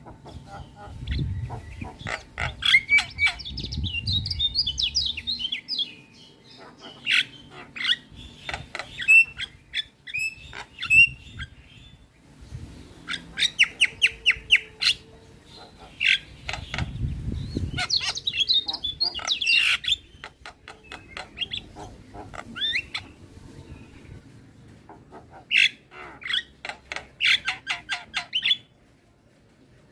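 Javan mynas (jalak kebo) singing in bursts of rapid chattering notes, squawks and whistles, broken by short pauses.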